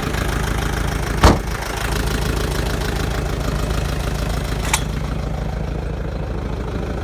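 Mitsubishi FG 4x4 truck's diesel engine idling steadily, an exhaust the owner thinks needs a muffler. A loud sharp knock about a second in and a smaller click near five seconds sound over it.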